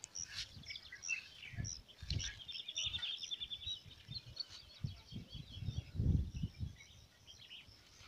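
Small birds chirping and calling, with one rapid trill about two and a half seconds in, over irregular low thumps on the microphone, the strongest about six seconds in.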